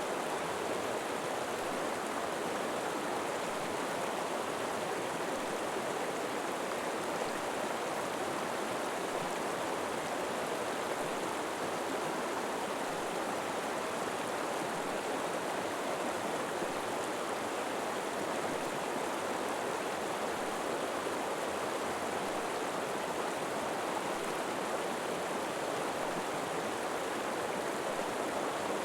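River water flowing steadily over rocks, a continuous even rushing sound with no breaks.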